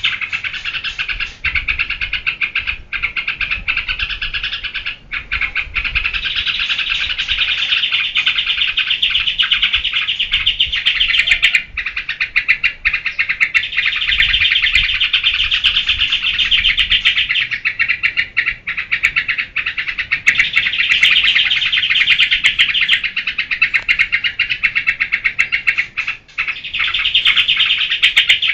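Yellow-vented bulbul (trucukan) singing a nonstop run of rapid, chattering notes, broken only by a few brief pauses.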